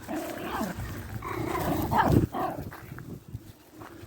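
Dog barking and yelping in a run of excited calls, loudest about two seconds in, then a few short taps.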